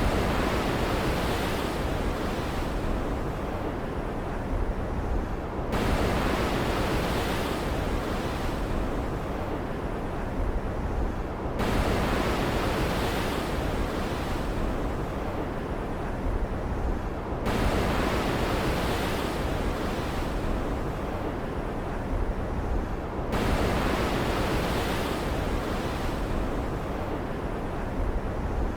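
Stormy ocean ambience: a steady rush of waves and rain. A surge comes in suddenly about every six seconds and then fades.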